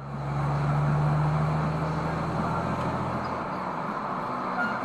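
Steady motor-vehicle noise: a low engine hum over a rushing haze, the hum dropping away about three and a half seconds in.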